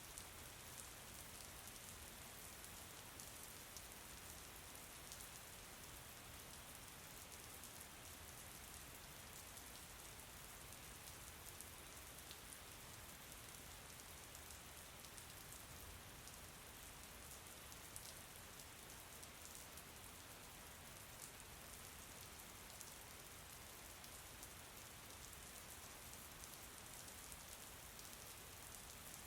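Faint, steady rain with fine scattered drop ticks, even throughout.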